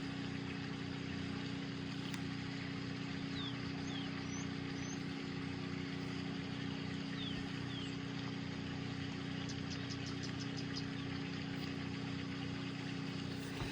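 Steady low hum with a faint hiss, and a short run of faint ticks about ten seconds in: room tone, with no distinct sound event.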